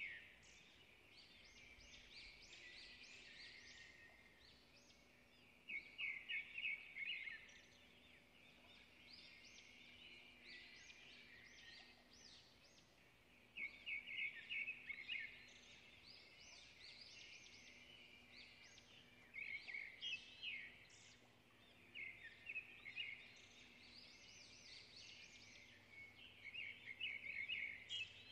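Faint bird chirping in short high bursts every few seconds, over a low steady hum.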